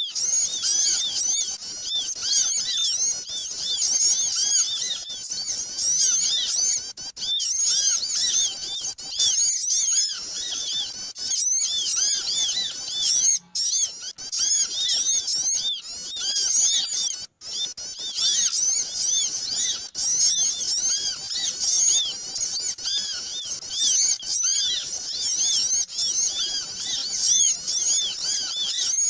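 Noisy, unbroken chatter of many small birds: rapid high-pitched chirps overlapping one another, with a couple of brief dropouts partway through. It is a bird-lure call recording (suara pikat) for drawing in small birds.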